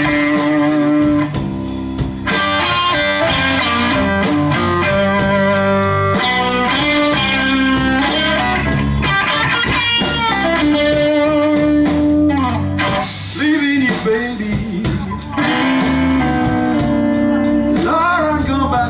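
Blues band playing a slow blues instrumental passage, with the electric guitar taking the lead over a steady low bass line and bending notes upward several times.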